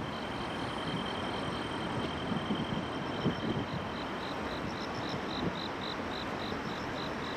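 Insects chirping in a steady rhythm, about four short chirps a second, over a constant hum of distant city traffic; a thin steady high trill fades out in the first few seconds.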